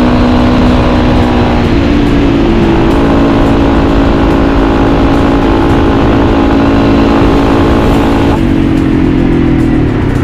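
Motorcycle engine running under way, most likely a Yamaha XT250 single, with road and wind rush beneath it. Its note shifts about two seconds in, then eases off about eight seconds in as the higher tones fall away.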